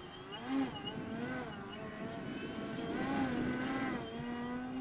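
Electric motor and propeller of an OMP Hobby Bushmaster RC plane in flight, the pitch rising and falling with throttle changes and passes, loudest about three seconds in.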